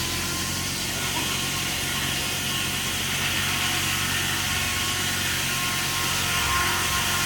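An engine running steadily, with a constant low hum and a hiss above it.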